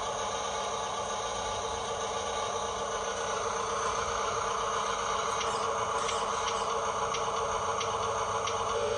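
Radio-controlled toy dump truck's small electric motor and plastic gearbox whirring steadily. About halfway through, light ticks join in at about two a second.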